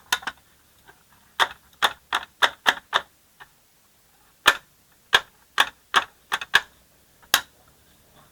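A string of sharp, irregular clicks and knocks, about sixteen, coming in two quick runs with short pauses between them, like hard objects being handled or tapped together.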